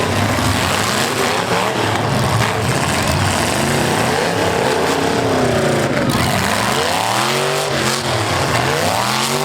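Several V8 full-size demolition derby cars' engines revving, their pitches rising and falling over and across each other again and again over a steady haze of noise.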